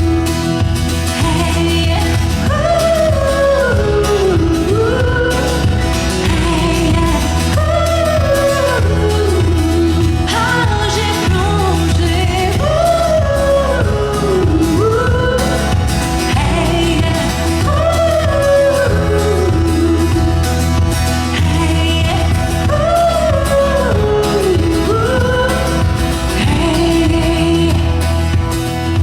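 Live band playing a song, with a wordless melody line gliding up and down over a steady bass and beat.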